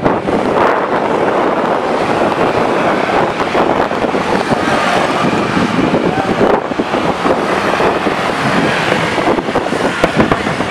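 Fireworks crackling and popping in a dense, continuous run of sharp cracks, over crowd chatter, with wind on the microphone.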